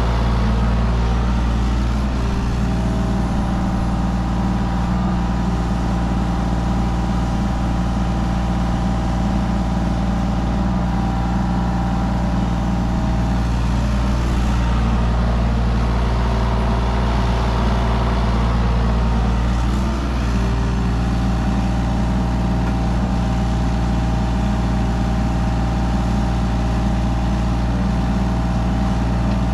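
Mini excavator's diesel engine running steadily under work, with a higher steady whine, typical of the hydraulics under load, that comes in for two long stretches of about ten seconds each.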